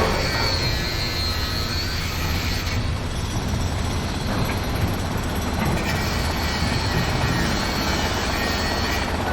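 Heavy construction machinery running steadily: a low engine rumble, with a thin high whine during the first couple of seconds and again in the second half.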